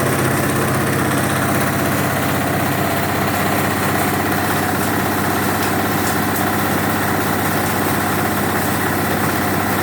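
Coconut husk shredder machine running with a steady, unchanging engine-like drone.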